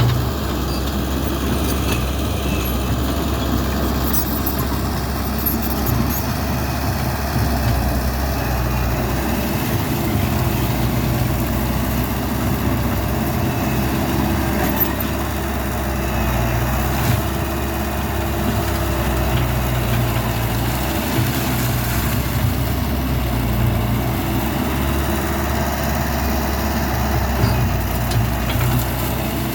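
Caterpillar 312D hydraulic excavator's diesel engine running steadily as the machine works.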